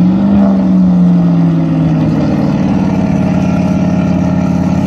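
Car engine held at high revs during a burnout on a wet track. The revs climb as it starts, hold, ease back slightly about two seconds in, then run steady.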